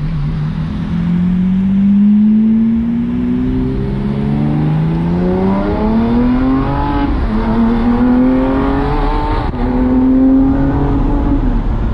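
Lamborghini Aventador SVJ's V12 engine through a Balboni exhaust, accelerating through the gears. The engine note climbs steadily and falls back at each upshift, several times over.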